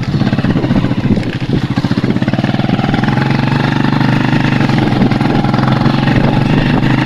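Motorcycle engine running while being ridden, the engine note rising slightly about two and a half seconds in and then holding steady.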